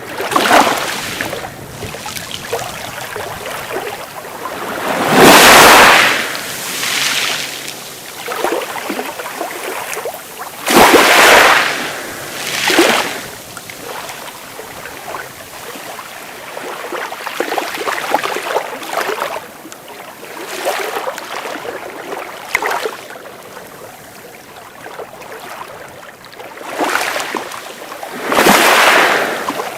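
Sea waves breaking on a shore, each wash rising into a loud rush and falling back, with the biggest breaks about 5, 11 and 28 seconds in over a steady hiss of surf.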